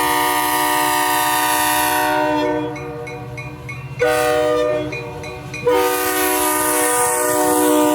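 Locomotive air horn sounding a chord of several notes in blasts: a long blast that ends about two and a half seconds in, a short blast at about four seconds, then another long blast from about six seconds on.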